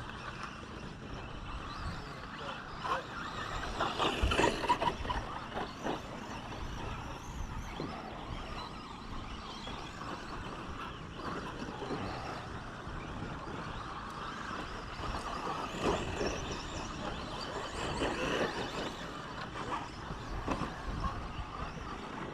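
2WD radio-controlled short course trucks racing: small motors running and tyres on the track, with scattered knocks. It gets louder around four seconds in and again around sixteen seconds in, as trucks pass close by.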